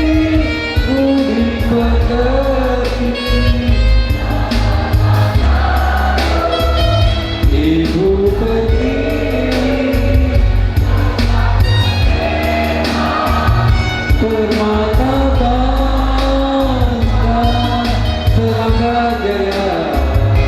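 A school choir singing in several voices over an accompaniment with a strong bass and a steady beat.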